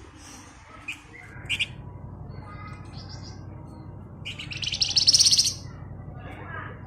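Flamboyan bird (wergan Jawa) singing: a few short high chirps, then a loud, rapid rattling trill about four seconds in lasting over a second, the bird's fast 'ngebren' song. A steady low hum runs underneath.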